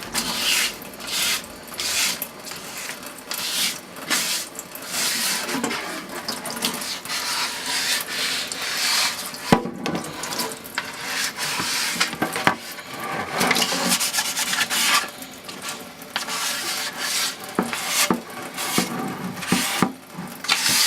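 Hand wet-sanding of a primed motorcycle fairing with 400-grit sandpaper and water: repeated back-and-forth rubbing strokes, with a few sharp knocks along the way.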